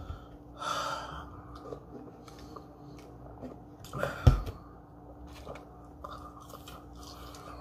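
Mouth sounds of someone chewing French fries close to the microphone. A single low thump a little after four seconds in, as the drink cup is set down on the table. A faint steady hum runs underneath.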